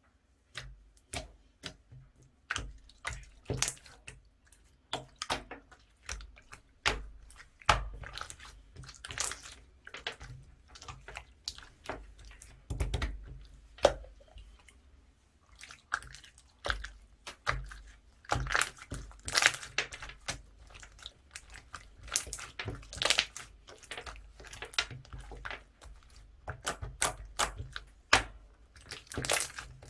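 Hands squishing and stretching clear slime, making an irregular run of sticky clicks, pops and squelches, several a second.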